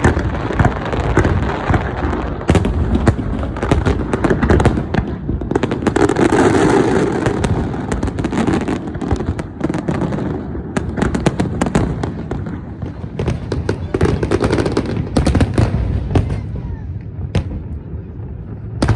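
Fireworks going off in rapid, overlapping succession: a dense run of booms and crackling bangs, heaviest about a third of the way in and thinning a little near the end.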